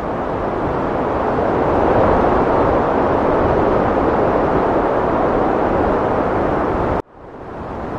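Heavy wind blowing steadily, swelling to its strongest about two seconds in. Near the end it cuts out abruptly and fades back in, a splice in the looped recording.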